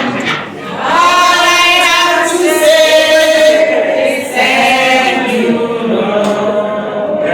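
A group of people singing together in chorus, in phrases with brief breaks about half a second in and about four seconds in.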